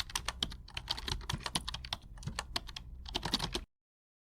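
Rapid, irregular clicking like keys being typed on a keyboard, cutting off suddenly about three and a half seconds in.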